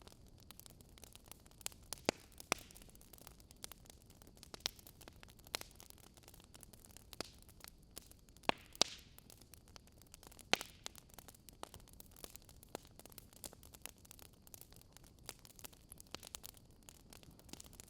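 Wood fire crackling: burning logs give off irregular sharp pops and snaps over a soft hiss, with a handful of louder snaps scattered through.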